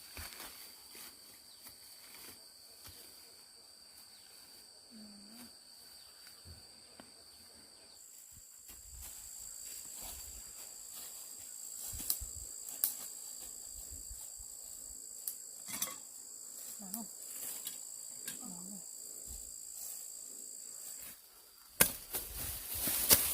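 Insects chirring steadily in high continuous tones, with a second, higher insect tone joining about a third of the way in and dropping out near the end. Scattered light clicks and rustles run throughout, and a few sharp knocks come near the end.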